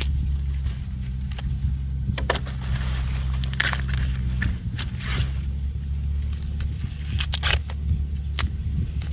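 A motor running steadily with a low hum, with scattered clicks and knocks over it.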